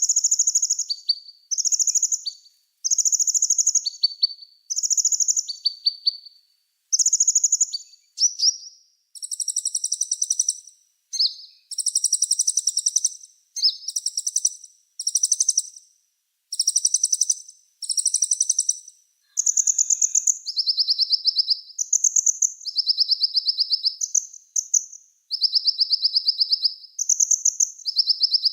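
Small songbird singing a fast run of high, rapidly pulsed trills, each phrase about a second long with short gaps between, switching back and forth between a higher and a lower pitch.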